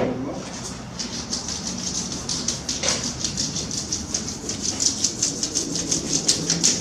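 An unwrapped crayon rubbed flat back and forth over paper laid on a plaque to make a rubbing: a fast, even scratchy stroking, about four or five strokes a second, starting about a second in. A single knock at the very start.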